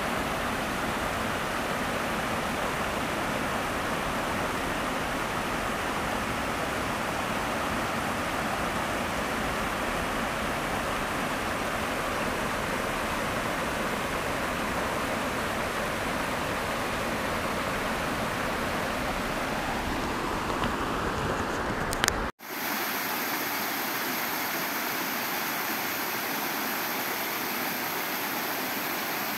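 Waterfall: a steady rush of falling water. It breaks off abruptly about two-thirds of the way through and resumes thinner, with less low rumble.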